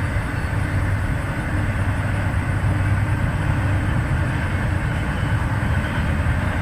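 Freight train's cars rolling past, a steady noise of steel wheels on the rails.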